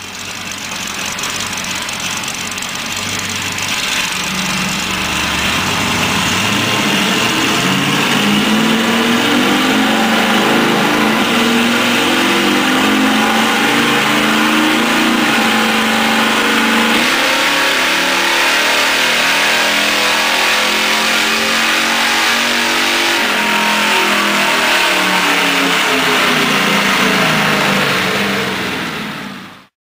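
1972 Chevrolet Nova's engine revving hard through open exhaust cutouts, with no mufflers, as the rear wheels drive chassis-dyno rollers in a full power run. It is loud throughout: the revs climb over the first several seconds, hold high, and fall away near the end.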